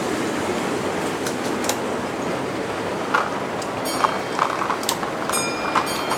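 Model train running on a layout: a steady rumbling hiss with scattered sharp clicks from wheels over the track. About five seconds in, a thin, high ringing tone begins.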